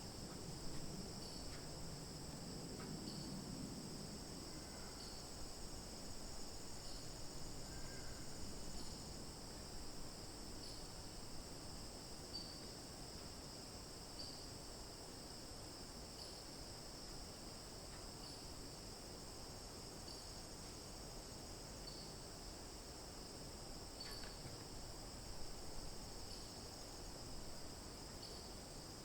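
Steady high-pitched chorus of insects, likely crickets, with faint short blips about every two seconds. A low rumble sits underneath during roughly the first nine seconds.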